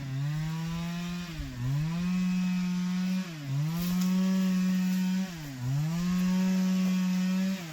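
Two-stroke chainsaw running at high revs while cutting firewood. Its engine speed dips sharply and recovers about every two seconds as the chain bites into the wood.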